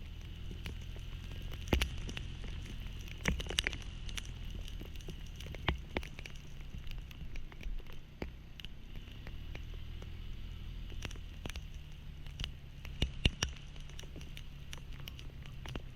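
Rain pattering, with scattered sharp drops hitting close to the microphone, over a low steady hum.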